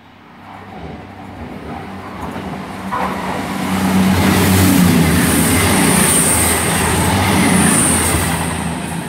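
CrossCountry Class 221 Super Voyager diesel-electric multiple unit passing through the station without stopping. Its engine note and wheel rumble build over the first few seconds to a loud peak, with a high whine near the middle of the pass.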